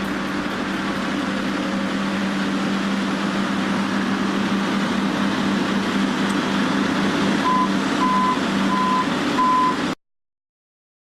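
Excavator engine running steadily. Near the end its travel alarm beeps four times in an even rhythm, then the sound stops abruptly.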